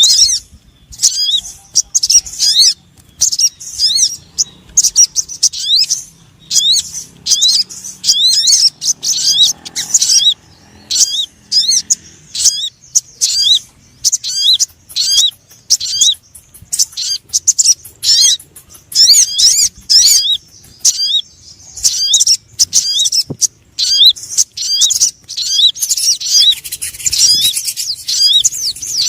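Bird-luring recording of a sunbird (sogon) song: rapid, high, sliding chirps in short bursts about a second long, separated by brief gaps, repeating over and over.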